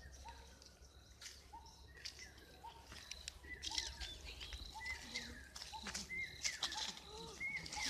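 Birds chirping with many short, repeated calls that become busier after a few seconds, with faint scattered clicks.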